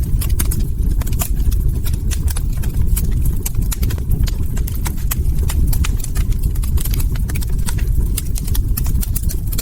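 Log fire crackling: frequent, irregular sharp pops and snaps over a steady low rumble.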